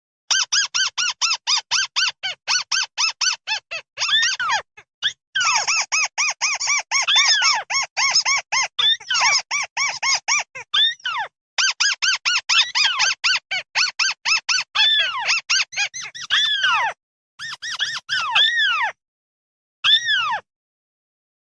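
Recorded flock calls of the bird known in Vietnamese as mắt xéo: fast runs of short, high, arched chirps, about five or six a second, broken by a few brief pauses, played as a lure file for calling in a flock.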